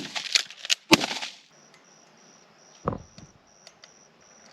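Shotgun shots at doves: a sharp report right at the start with rattling echo, a second sharp shot about a second in, and a duller, lower report near three seconds. A high insect buzz comes and goes in short pulses behind them.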